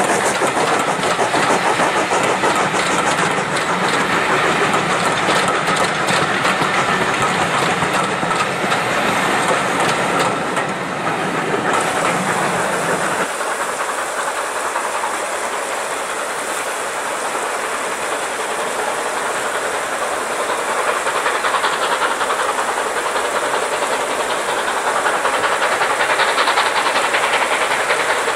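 Passenger coaches rolling past close by, their wheels clattering over the rail joints. About 13 seconds in this gives way to a steady hiss with a distant steam locomotive approaching, growing a little louder near the end.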